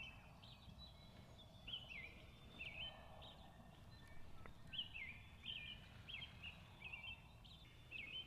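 Faint songbird chirping: short, hooked notes repeated about once a second, over a low, steady background rumble.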